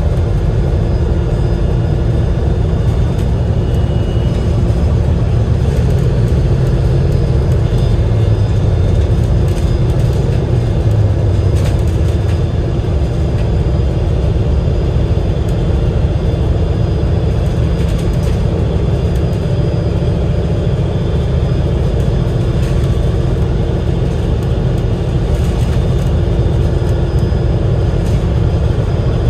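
Cummins L9E diesel engine and drivetrain of an Enviro500 MMC double-decker bus running while the bus is under way, heard from inside the cabin: a steady low rumble with faint whining tones above it.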